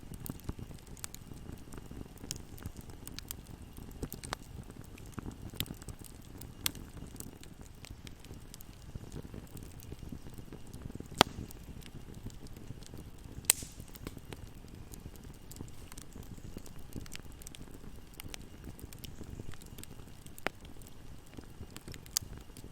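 Wood fire burning in a fireplace: a steady low rumble of flames with frequent small crackles and sharp pops, two of them much louder about halfway through.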